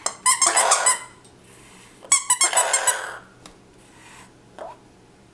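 Rubber dog squeak toy squeaking in two quick bursts of rapid squeaks, each about a second long, the second about two seconds after the first.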